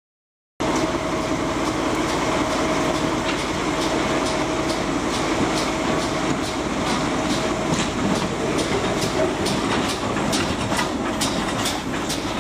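Locomotive running round its train: a steady rumble with a faint hum, starting about half a second in. In the last third, a regular clicking of wheels over rail joints comes in at a little over two clicks a second.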